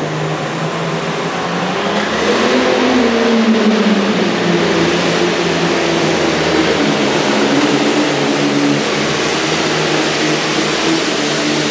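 Super farm pulling tractor's diesel engine running hard. Its pitch climbs about two seconds in, sags over the next couple of seconds, then holds steady.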